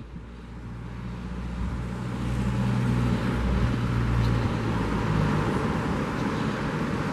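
A motor vehicle passing on the seafront road, its engine hum swelling in the first seconds and fading near the middle, over the steady noise of surf and wind.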